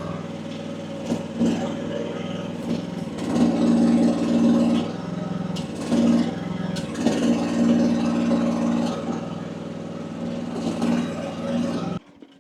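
AGT WH12R mini excavator's engine running under hydraulic load, its note swelling several times as the arm and bucket are worked and easing in between. The hydraulic relief is set low, around 1900 psi, and the engine pulls the load without struggling or dying. The sound cuts off abruptly near the end.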